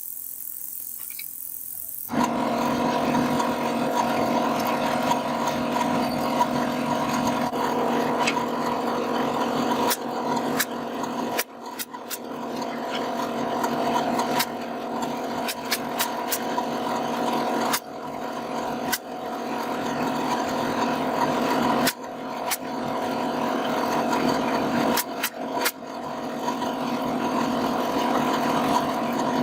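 A handheld electric power tool working wood starts about two seconds in and runs steadily with a whine. Its loudness builds and drops off sharply several times, and scattered clicks sound throughout.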